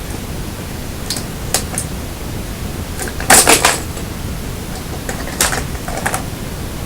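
Demolition explosive charges firing in sequence: a series of sharp cracks, the loudest cluster about halfway through, over a steady hiss.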